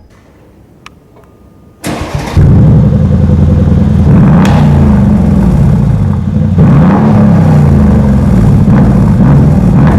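Mercedes E500 Coupé V8 with an aftermarket sports exhaust started: a short starter crank about two seconds in, then the engine catches loudly and runs, its pitch rising and falling several times with throttle blips.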